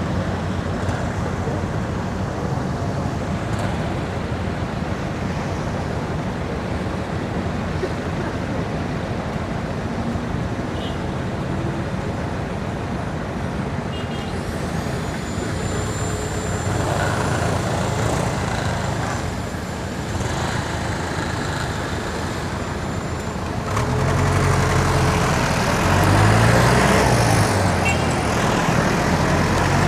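Steady road traffic heard while cycling along a city street, with motor vehicles running close by. About three quarters of the way through, a nearby vehicle's engine grows louder and its low hum rises and falls.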